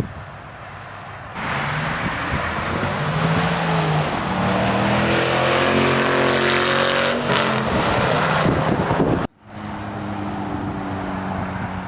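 A car engine starts up loud about a second in and revs, its pitch rising and falling as it accelerates. It cuts off abruptly about nine seconds in, followed by a steadier engine hum.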